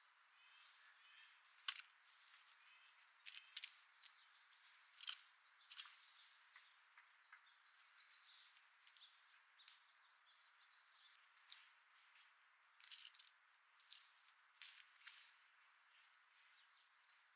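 Birds at a seed feeder: scattered sharp taps and clicks, with a couple of short high chirps that fall in pitch, one about eight seconds in and a louder one near thirteen seconds.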